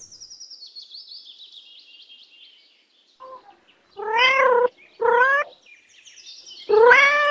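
Domestic cat meowing three times, each meow short and clear, the first about four seconds in, with faint high chirping before them.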